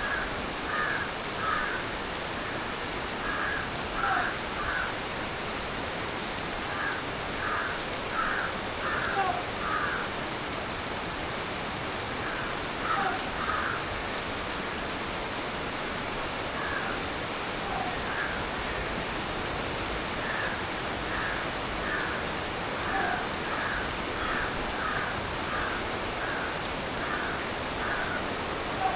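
Steady tropical monsoon rain falling. Through it an animal gives short calls in runs of two to four notes every few seconds, with an occasional single lower call.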